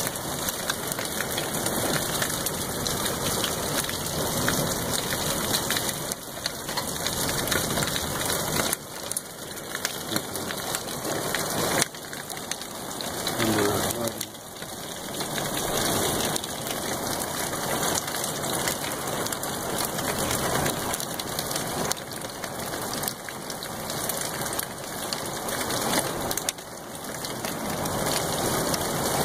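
Rain pouring down in a thunderstorm, a dense steady hiss that swells and eases in waves, with a few brief lulls.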